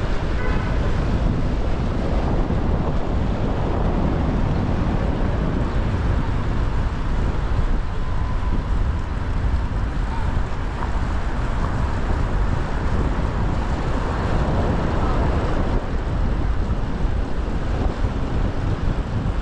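Steady wind rushing over an action camera's microphone on a moving bicycle, over a bed of city traffic noise.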